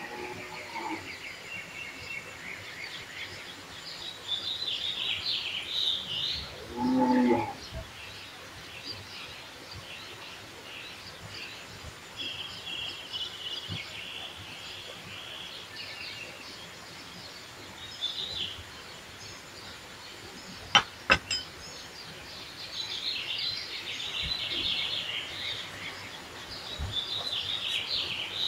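Birds chirping and singing on and off, with a short lower call about seven seconds in and two sharp clicks a little after twenty seconds.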